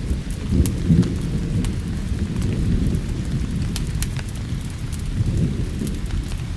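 Thunderstorm: a low rolling thunder rumble, heaviest about a second in, over steady rain, with the sharp scattered pops of a crackling wood fire.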